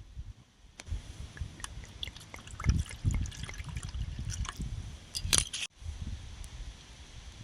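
Liquid dripping and splashing in small irregular clicks over a low rumble of wind on the microphone. A louder splash comes after about five seconds, then the sound cuts off abruptly.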